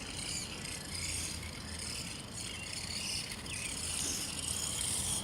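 Small electric 1/18-scale Axial trophy truck RC car running on its course, a faint, steady whir of its motor and gears with some tyre noise.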